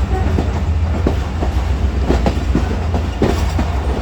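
Moving passenger train, heard from aboard: the wheels clack irregularly over rail joints over a steady heavy low rumble.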